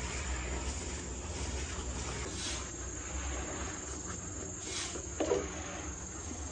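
Steady high-pitched insect-like whine over a low hum, with a short thud about five seconds in.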